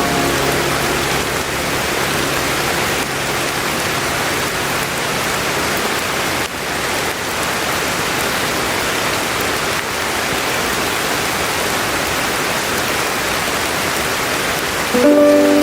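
Steady rain, a dense even hiss. The last notes of a tune die away in the opening moments, and a new melody begins near the end.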